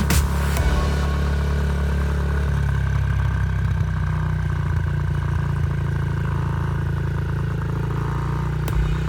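Dirt bike engine running steadily, with a slight change in its note about two and a half seconds in.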